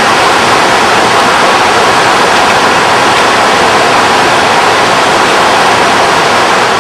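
Steady, loud rush of the Krimml Waterfalls, a very high Alpine waterfall running in full spate with snowmelt.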